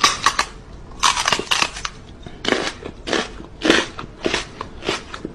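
A run of crunching noises, roughly two a second, like something being crushed or crunched.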